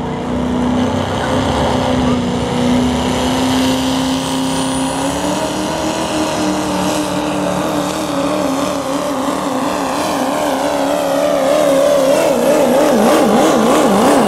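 Duramax diesel pulling truck at full throttle, dragging a pulling sled down the track. The engine note holds steady, climbs a little about five seconds in, and wavers up and down near the end as the truck bounces.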